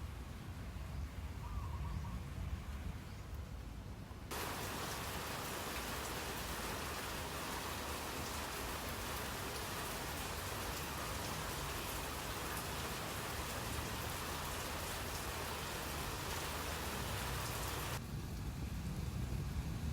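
Steady hiss of water, even across all pitches, starting suddenly about four seconds in and cutting off suddenly near the end, over a low rumble.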